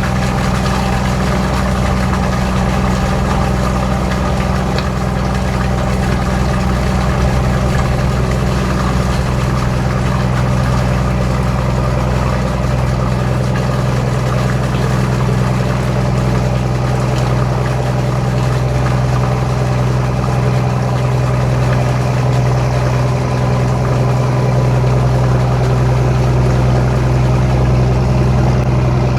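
Boat engine running steadily at an even speed, a constant low hum with no change in pitch.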